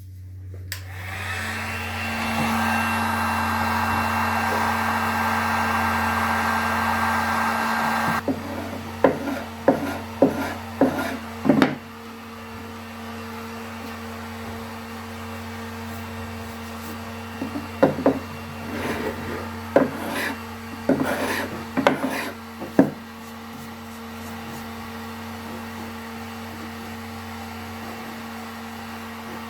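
Heat gun blowing steadily for about seven seconds, then switched off. Short sharp strokes of a carbide scraper peeling paint off the dresser's wood follow in two runs, with a pause between, over a low steady hum.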